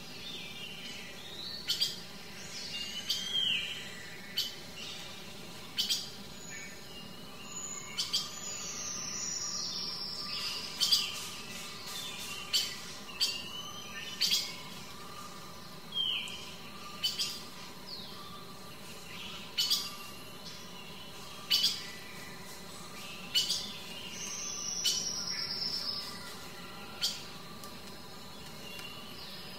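Birds calling: sharp chip notes every second or two, mixed with a few high whistled calls that slide downward in pitch.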